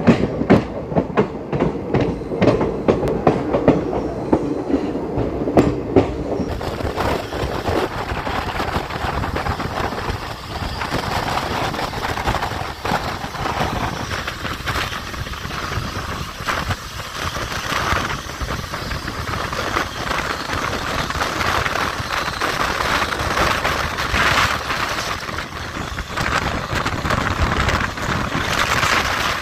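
Wheels of an Indian Railways passenger coach clattering over points and rail joints, a quick run of sharp clicks for the first six seconds or so. Then comes a steady rushing rumble with air streaming past the open doorway as the train runs at speed.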